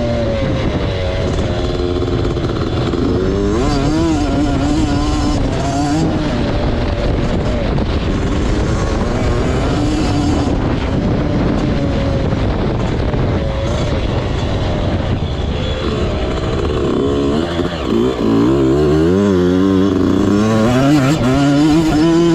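Motocross bike engine revving up and down as it is ridden, pitch rising and falling with the throttle. Near the end it climbs steeply several times in a row, as it would when shifting up through the gears.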